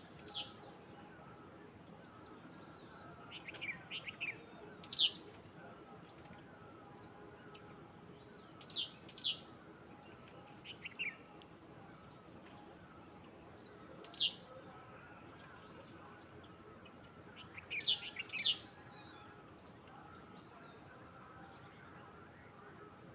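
A bird calling: short, sharp notes that fall steeply in pitch, often given in pairs, repeated every few seconds, with a few softer, lower chirps between them over a faint steady outdoor background.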